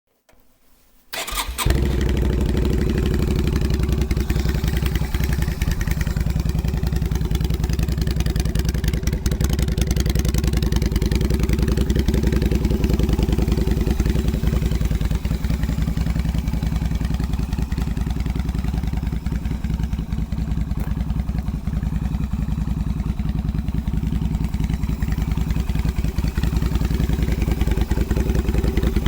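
Yamaha Virago 250 V-twin motorcycle engine started: a brief crank, then it catches about a second and a half in and idles steadily.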